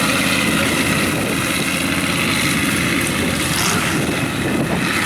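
Mud-bogging truck's engine running hard at high revs, a loud steady drone that holds without a break.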